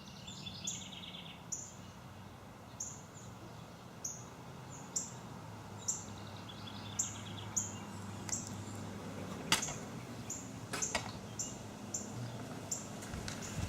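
Birds calling outdoors: a short, high downward chirp repeated about once a second, with a brief trill now and then. Two sharp clicks sound a little past the middle, over a steady low hum.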